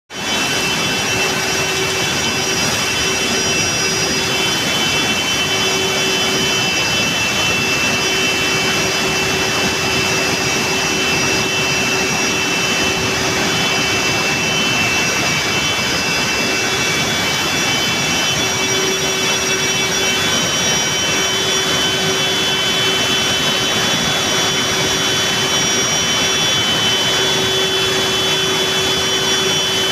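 A waterfall's steady, loud rush of falling water, with a few faint steady high-pitched tones above it.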